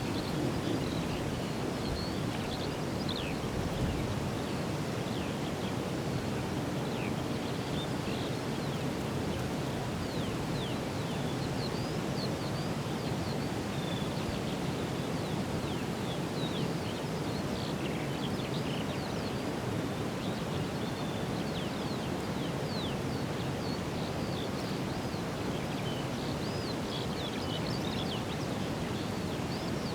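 Small songbirds chirping and singing in many short high notes throughout, over a steady low rushing background noise.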